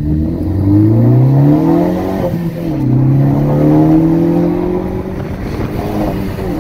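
Ford Focus ST's turbocharged 2.0-litre four-cylinder with a Borla cat-back exhaust, heard from inside the cabin under hard acceleration. The revs climb, drop at an upshift about two seconds in, climb again more slowly, and drop at another upshift near the end.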